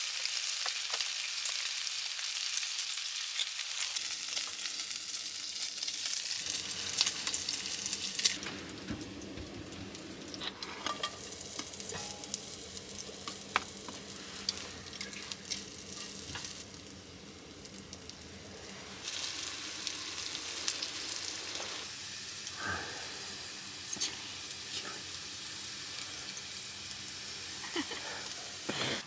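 Food frying in a pan: steady sizzling and crackling with scattered sharp clicks. It drops out for a couple of seconds past the middle, then resumes.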